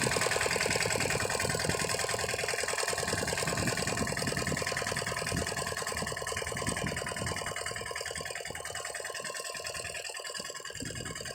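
Lombardini diesel engine of a two-wheel walking tractor running steadily with rapid, even firing beats, slowly getting quieter.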